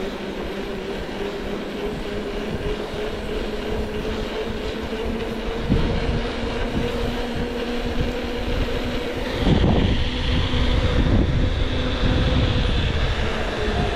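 A heavy vehicle's engine running steadily under a low rumble, with louder jolts and rumbling about six seconds in and again from about the tenth second.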